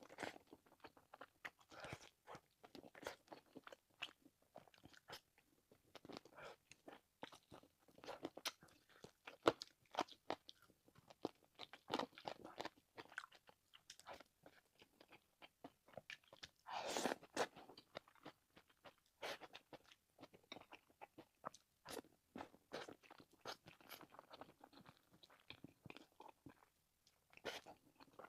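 Close-up mouth sounds of a person eating a home-style meal: a steady run of short wet chewing, biting and smacking sounds, with a longer noisy mouth sound about 17 seconds in.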